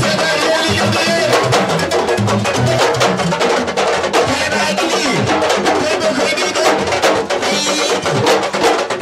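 Sabar drumming: a fast, dense stream of sharp stick-and-hand strikes over deeper drum tones.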